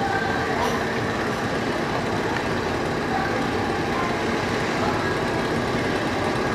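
A train running, a steady even rumble and hiss with nothing standing out.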